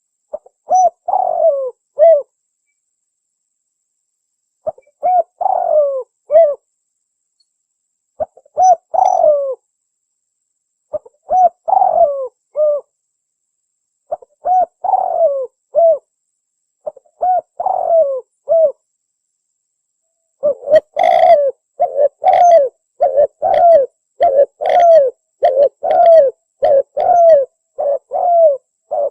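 Spotted dove (tekukur) cooing, played as a lure call: a short multi-note coo phrase repeated about every three seconds, with silence between, then from about two-thirds of the way in a quicker run of coos with hardly any gaps.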